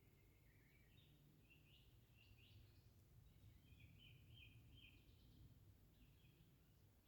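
Faint birdsong in a forest at dawn: a run of short, quick chirping notes repeated over several seconds, heard over a low, steady background rumble.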